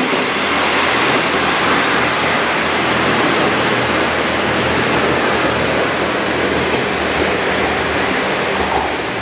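Kashima Rinkai Railway 6000-series diesel railcars passing close by: a loud, steady rush of wheel and running noise over a low engine hum.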